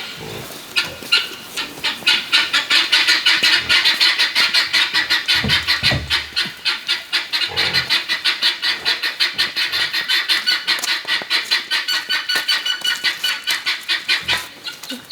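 Hand saw cutting through bamboo with fast, even strokes, about six rasps a second.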